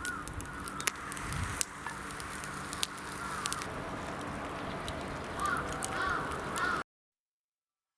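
Outdoor ambience with crow-like caws a few times and scattered sharp clicks over a low steady background. It cuts off suddenly to silence near the end.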